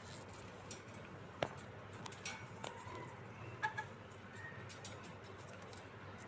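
A cockatiel giving a few brief chirps, with scattered sharp clicks, over a steady low background noise.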